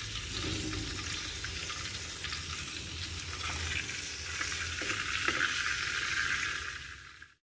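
Marinated pork cutlets frying in hot oil in a pan, a steady sizzle with scattered small crackles that cuts off abruptly near the end.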